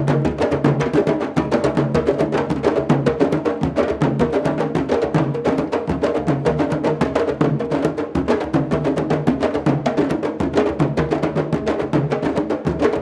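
Candombe drums playing a steady, dense rhythm of many quick strikes, with a low drum tone that recurs in a repeating pattern.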